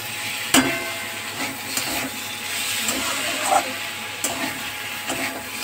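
Ivy gourd, potato and onion sizzling in a kadai as a spatula stirs them, with a steady frying hiss and a few short scrapes and knocks of the spatula against the pan.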